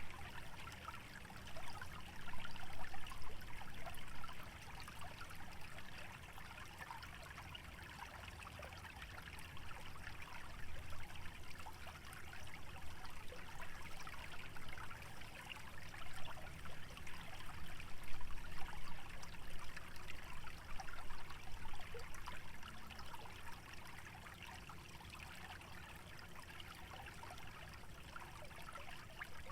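Shallow stream trickling steadily over a wetland bed. Underneath runs a low rumble that swells and fades a few times.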